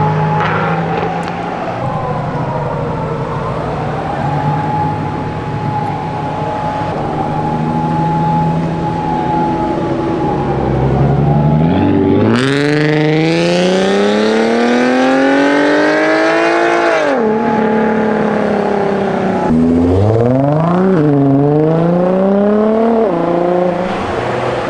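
Car engine running low, then accelerating hard about halfway through, its pitch climbing for several seconds before dropping, then rising and dropping twice more.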